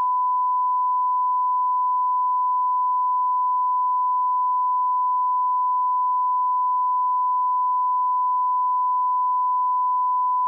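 Continuous 1 kHz sine-wave line-up tone at −18 dBFS, a steady unchanging pitch and level used as the reference for setting audio levels.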